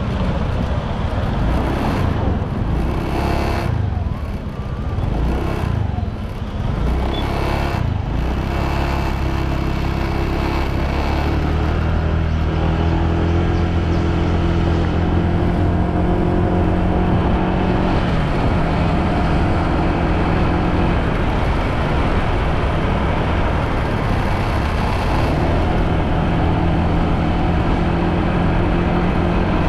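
Motorbike engine running while riding. It is uneven for the first dozen seconds, then settles into a steady drone at constant speed.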